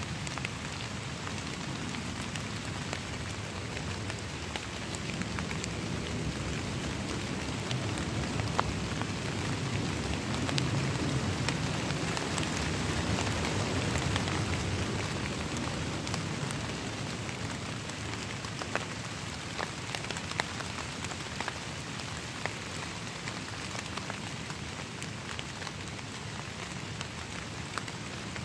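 Rain falling on wet leaf litter of a forest floor: a steady patter with many separate drops ticking on the leaves, growing louder for several seconds in the middle.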